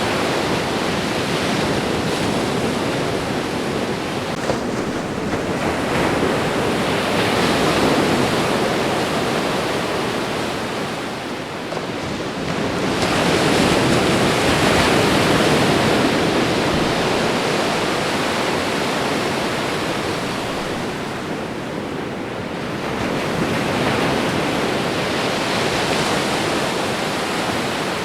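Ocean waves breaking and washing up a shore, a steady rush of surf that swells and ebbs, with the biggest swell about halfway through.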